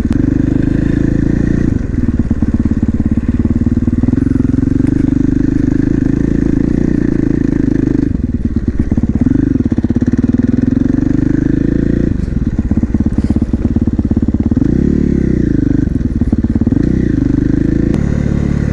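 450cc supermoto's single-cylinder engine running under way. The revs dip and pick up again about five times as the throttle is rolled off and back on.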